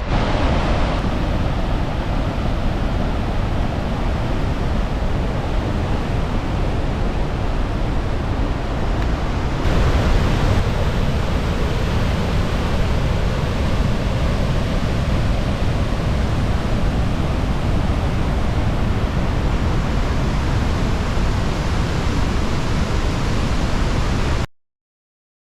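Steady, loud rush of a large waterfall, Cariboo Falls, pouring without a break; it cuts off suddenly near the end.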